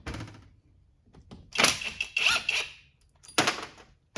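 Small metal parts and hand tools being handled and set down on a work table. A thunk comes at the start, then a scraping clatter about a second and a half in with a brief squeak, and a sharp clink near the end.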